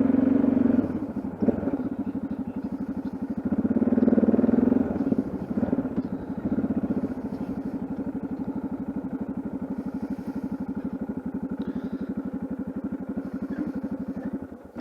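Yamaha XT660Z Ténéré's single-cylinder engine running with an even, rapid pulse, louder briefly at the start and again about four seconds in, then steady, before the sound cuts off suddenly near the end.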